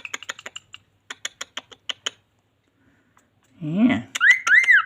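A pet bird clicks rapidly, about six or seven sharp dry clicks a second, for about two seconds. Near the end come several quick rising-and-falling whistles.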